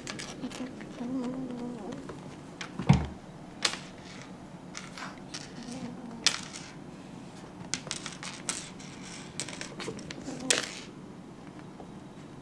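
A one-month-old American Shorthair kitten growling low over a pom-pom toy in its first couple of seconds, among sharp clicks and knocks of play. The loudest is a thump about three seconds in, and there is a quick run of clicks between about eight and ten and a half seconds.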